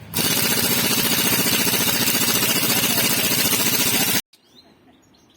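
Opel Astra F engine running with a loud, fast, even ticking clatter from the valve train, typical of knocking hydraulic lifters. It starts suddenly and cuts off abruptly about four seconds in.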